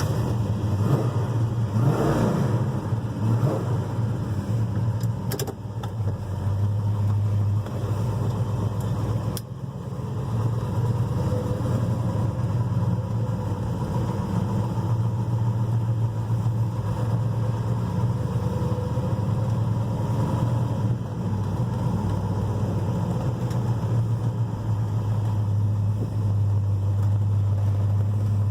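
A 1969 Dodge Charger's 440 big-block V8 starting up right at the start, rising and falling in pitch as it is revved about two to three seconds in, then running steadily at idle.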